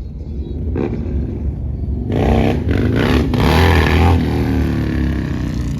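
Vehicle engine revving hard over a steady low idle rumble: it swells about two seconds in, then the pitch slides down as it eases off near the end.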